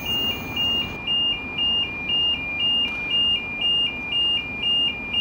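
Electronic two-tone warning alarm, a higher and a lower beep alternating steadily about twice a second.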